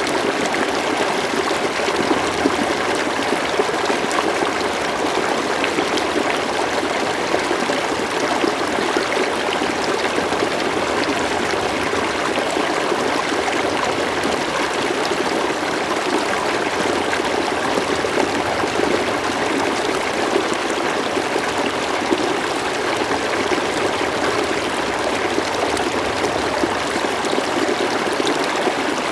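River water flowing steadily, a continuous rush with small splashes and trickles.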